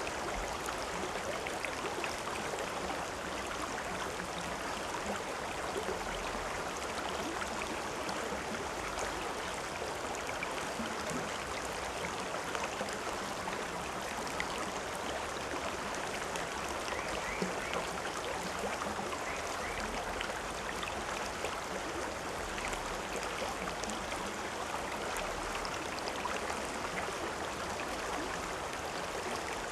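A river or stream running over rocks: a steady rush of flowing water with fine splashing and gurgling, even in level throughout.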